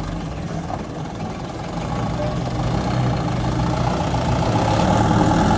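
Mitsubishi Canter truck's diesel engine running, growing louder from about two seconds in.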